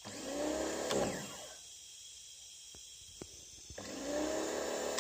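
A pressure-washer pump motor runs twice, each time for about a second and a half, spinning up and then winding down in pitch, with a few light clicks in the pause between. It is building water pressure inside a dented two-stroke expansion chamber to push the dents out.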